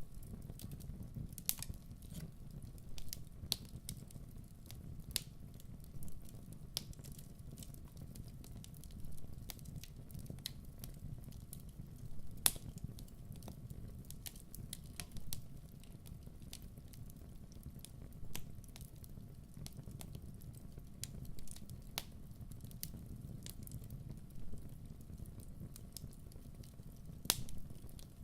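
Wood fire burning, with a low steady rumble and irregular sharp crackles and pops, two of them louder than the rest, about midway and near the end.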